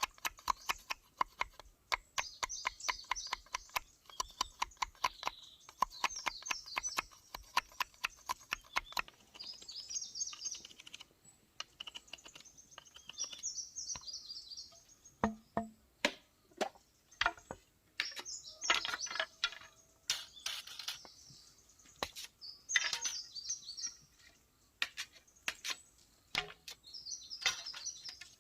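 Wild birds singing short, high, repeated phrases, over rapid light clicks or taps, several a second, for the first third, after which the taps thin out to scattered knocks.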